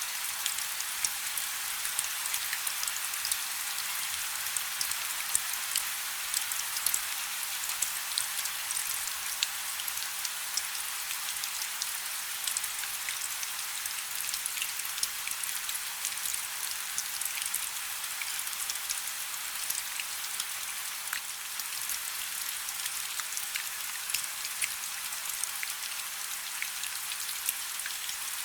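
Light rain falling steadily: an even hiss dotted with many small, sharp drop ticks.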